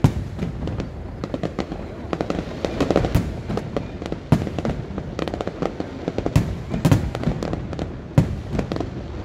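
Aerial firework shells bursting: a rapid, unbroken string of bangs and crackles, with heavier booms every second or two.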